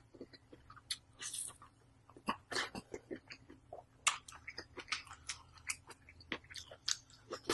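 Close-miked chewing and eating mouth sounds: irregular wet smacks and clicks, several a second, with a short hiss about a second in.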